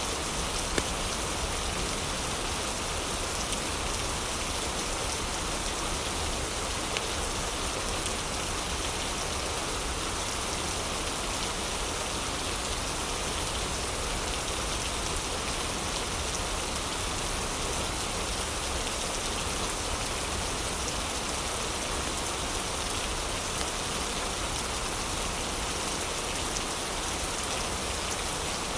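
Heavy rain falling steadily, with a few faint crackles and pops from a fireplace, one slightly louder about a second in.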